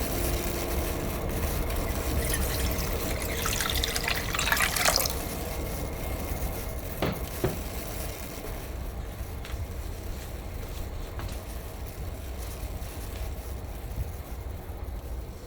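Water running and splashing, loudest about three to five seconds in, with a couple of light knocks around seven seconds.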